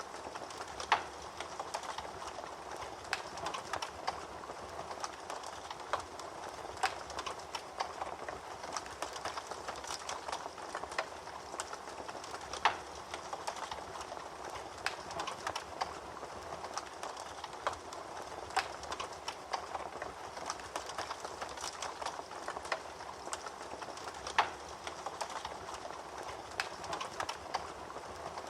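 Fire crackling in a fireplace: irregular sharp pops and snaps over a steady rushing hiss. The loudest pops come about a second in, near the middle and a few seconds before the end.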